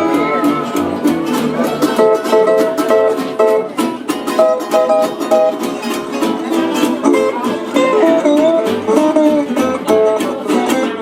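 Small acoustic band playing live: strummed ukulele and guitars over bass, with a melody line that bends in pitch.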